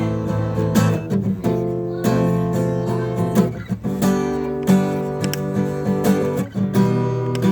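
Background music of a strummed acoustic guitar playing chords.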